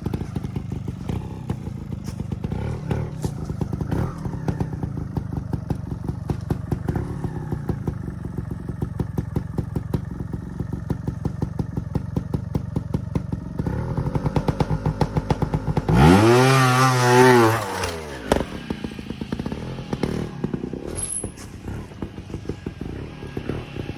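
Trials motorcycle engine running at low revs in a steady, rapid chug. About two-thirds of the way through it revs up hard and drops back within about two seconds.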